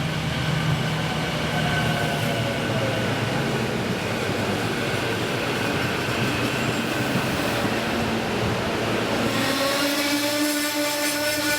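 SEPTA Silverliner V electric train moving along the platform: a steady loud rumble of wheels on rail with faint whining tones. About nine and a half seconds in, a clearer steady electrical whine joins it.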